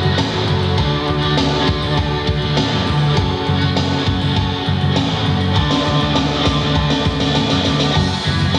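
Rock band playing live: an instrumental passage with no vocals.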